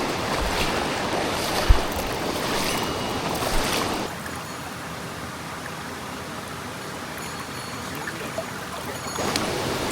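Mountain stream rushing over rocks, a steady hiss of water that drops noticeably about four seconds in and swells again near the end. A short low thump about two seconds in.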